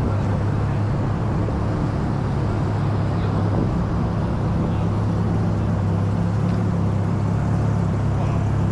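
A motor vehicle running with a steady low drone.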